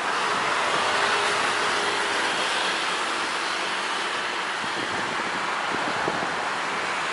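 Citilink airliner's engines running at takeoff power: a steady rushing noise with a faint hum under it.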